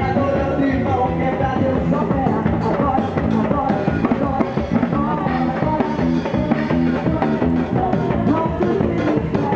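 A live gospel band playing rock-style music with a drum kit, continuous and steady.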